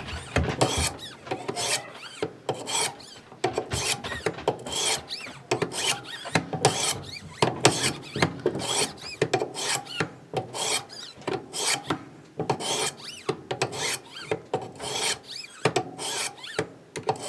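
Wicked Edge Go sharpening stones stroked along an S35VN steel knife blade, alternating from one side of the edge to the other: a steady run of short rasping strokes, a little more than one a second, each set finishing the edge with 10 more passes per side.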